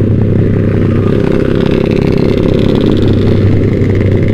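Yamaha Vixion's 150 cc single-cylinder four-stroke engine running at a steady pace through a Proliner TR1 short aftermarket exhaust while the bike is ridden.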